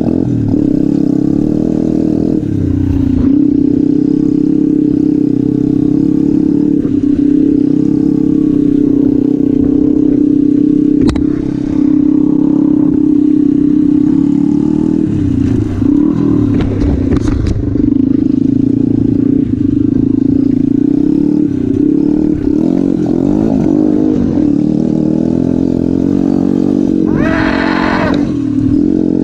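Motorcycle engine running steadily at speed, its note holding level most of the time and breaking briefly about three seconds in and again around the middle. There is a sharp click about eleven seconds in and a short, higher sound near the end.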